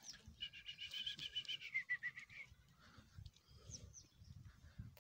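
A small bird singing a rapid trill of repeated high notes, about eight a second for roughly two seconds, dropping in pitch toward its end, then a couple of short high chirps a little later. Soft low thumps sound underneath.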